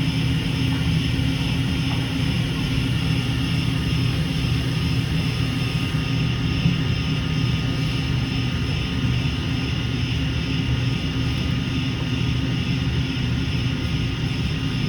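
Hurco CNC milling machine running steadily: a constant machine drone with several fixed tones held throughout.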